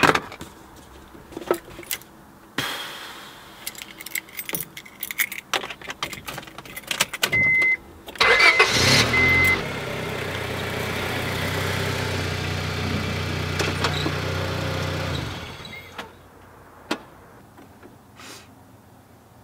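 Car keys and small clicks in a car's cabin, then a car's warning chime beeps three times as the engine starts and runs steadily for about seven seconds before the sound drops away.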